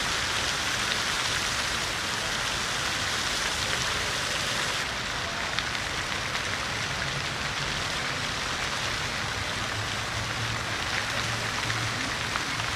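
City fountain splashing steadily, a dense, even rush of falling water; the hiss thins slightly about five seconds in.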